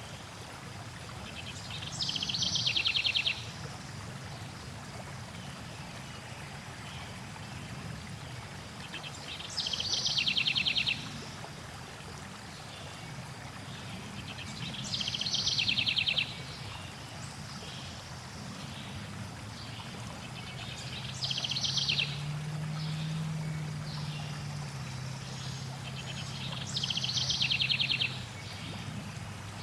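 A songbird sings the same short, fast, descending trill five times, about every six seconds, over the steady rush of flowing water.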